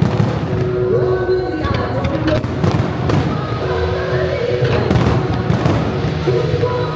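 Fireworks bursting and popping several times at irregular intervals over music played in sync with the display.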